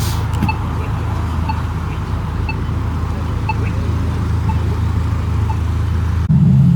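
Steady low car engine rumble with a faint high beep about once a second. Near the end the beeping stops suddenly and a louder low hum takes over.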